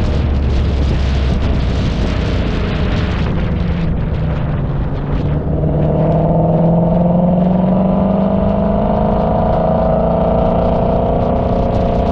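Car engine pulling under load. For the first few seconds it is mixed with wind and road noise; from about five and a half seconds in its pitch climbs slowly and steadily as it accelerates through a gear.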